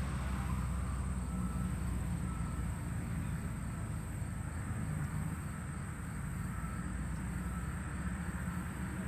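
Steady outdoor background: a low rumble under a constant faint high-pitched hum, with no distinct event standing out.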